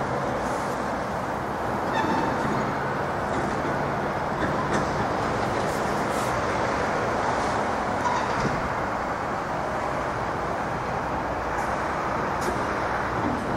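Norfolk Southern train rolling past: a steady rumble of wheels on rails with faint clicks now and then.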